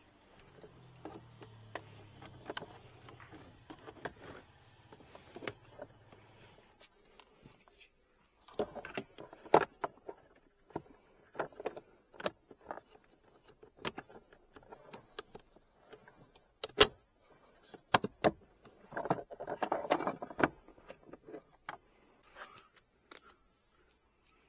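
Irregular sharp clicks, knocks and small rattles of parts and tools being handled during hands-on work on a car, with denser clusters of knocking about a third of the way in and again near the end. A faint low hum sits under the first several seconds.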